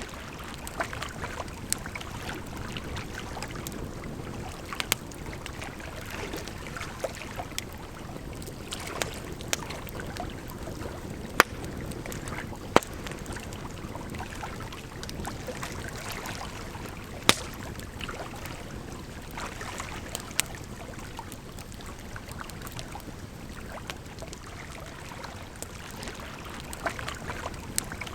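Wood fire crackling, with irregular sharp pops, a few of them much louder, over a steady rush of flowing water.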